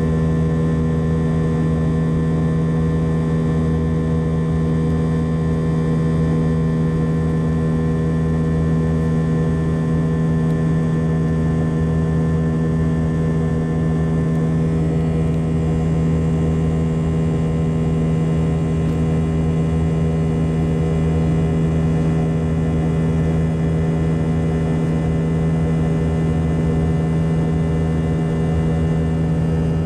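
Steady drone of a jet airliner's engines heard from inside the cabin, a constant hum made of several held tones. About halfway through, some of the higher tones shift slightly.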